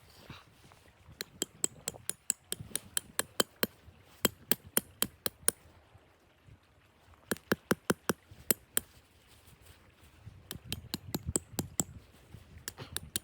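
A series of sharp clicks or knocks in three runs of about three to four a second, with short pauses between the runs.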